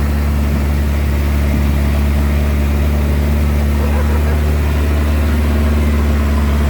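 Boat engine running at a steady speed, a constant low drone as the boat travels across the lake.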